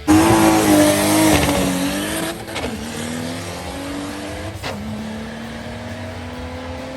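Turbocharged Toyota Supra accelerating hard through the gears: the engine note climbs, drops sharply at an upshift about two and a half seconds in and again at another about five seconds in, then climbs steadily once more. It starts suddenly and loud.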